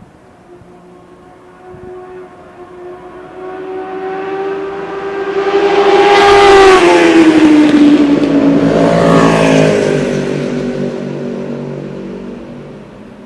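A motorcycle passing by: its engine note swells, peaks about halfway and drops in pitch as it goes past, then fades away. A second, lower engine note overlaps just after the pass.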